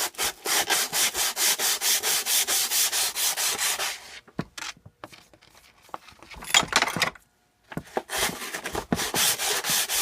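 Sandpaper rubbed back and forth by hand over metal in quick even strokes, about three or four a second, smoothing off burrs so the part will not stick when the engine's case is taken apart. The strokes stop for a few seconds in the middle, with a few light clicks, then start again.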